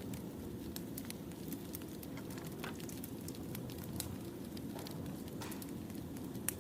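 Burning firewood: a steady low rumble of flames with scattered crackles and pops, a sharper pop about four seconds in and another near the end.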